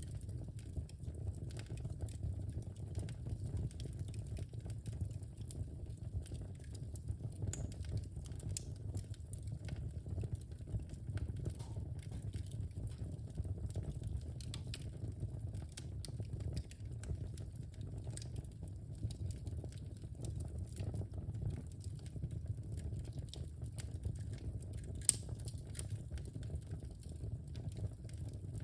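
Wood fire crackling in a fireplace: a steady low rumble of burning with scattered small pops and snaps, and one sharper pop near the end.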